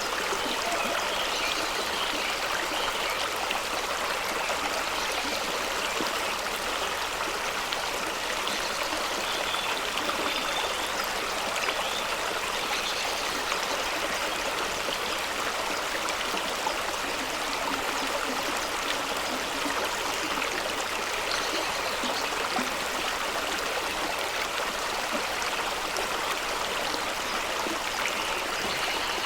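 Fast-flowing stream rushing and splashing over rocks, a steady, even water noise.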